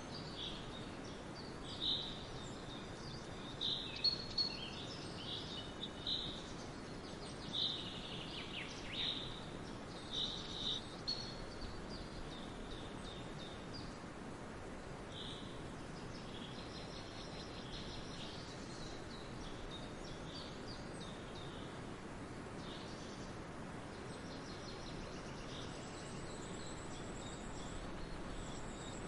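Forest ambience: birds calling and chirping over a steady background hiss, the calls frequent in the first half and sparser later. A faint high insect-like buzz comes in near the end.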